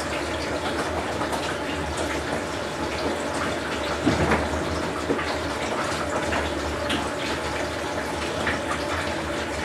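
Whirlpool Cabrio top-load washing machine in its wash cycle: water running and sloshing in the tub over a steady low hum, with an occasional louder splash.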